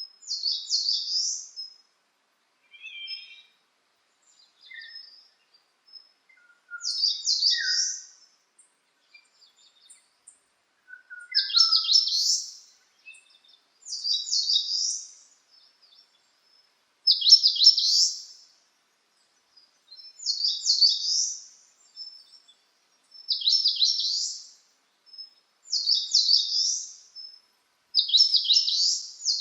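A songbird singing the same short, rapid phrase of high notes over and over, each phrase about a second and a half long and repeated every two to three seconds. A few fainter, lower calls from other birds fall between the phrases.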